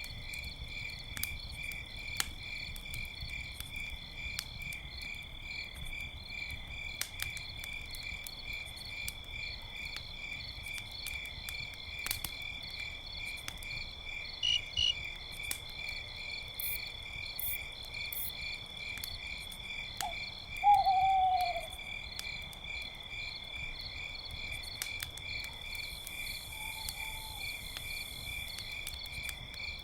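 Crickets chirping in a steady, fast, even pulse, with a campfire crackling in scattered sharp pops. About two-thirds of the way through an owl hoots once, a call that falls in pitch and is the loudest sound; a fainter hoot follows near the end.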